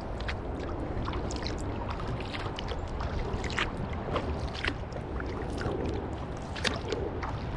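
Kayak paddle dipping and pulling through river water, with drips and small splashes falling from the blades at irregular moments, over a steady low rumble.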